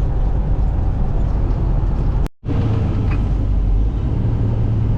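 Semi truck on the road: steady low engine and road rumble, broken by a brief cut-out of the sound a little over two seconds in, after which a steady low hum runs on.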